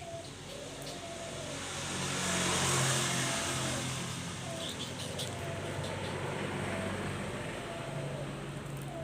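A motor vehicle passing, its engine and road noise swelling to loudest about three seconds in and then easing off. A bird coos repeatedly in the background.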